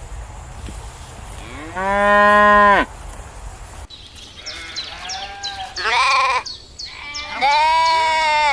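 Sheep bleating: one long bleat about two seconds in, then, after a short gap, a run of shorter bleats and a last long one near the end.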